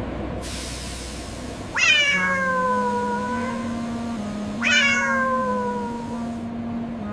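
Cat meowing twice: two long, drawn-out meows, each starting high and falling in pitch.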